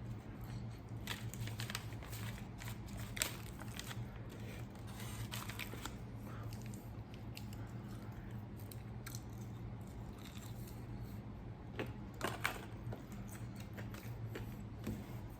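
Close-miked eating: chewing and wet mouth clicks with scattered crackles and rustles of food being handled, a few sharper crunches about 3 seconds in and around 12 seconds, over a steady low hum.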